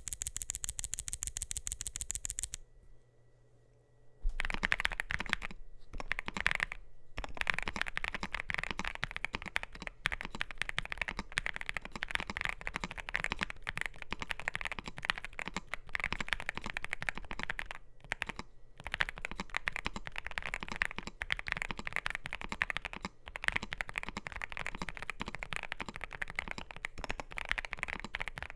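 Typing on a NuPhy GEM80 mechanical keyboard with NuPhy Raspberry switches and PBT mSA keycaps: a dense stream of keystrokes with short pauses, starting about four seconds in. Before that, a couple of seconds of rapid, evenly spaced high clicks.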